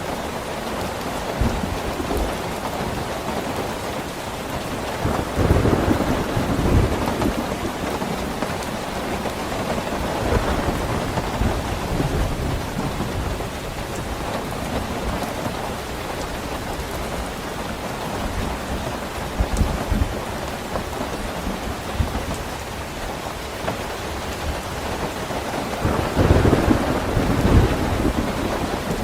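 Steady rain falling, with low rolling thunder swelling twice: about five seconds in and again near the end.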